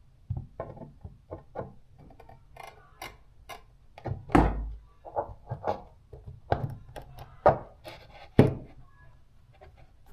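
Irregular sharp knocks and clacks, about twenty in all, with the loudest ones near the middle and towards the end.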